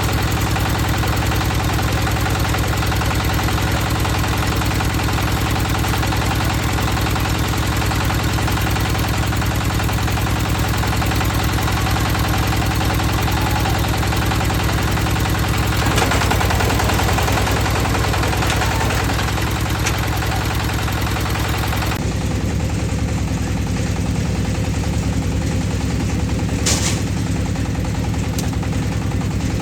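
Concrete mixer's engine running steadily under load, its tone shifting abruptly about two-thirds of the way through, with a couple of sharp knocks near the end.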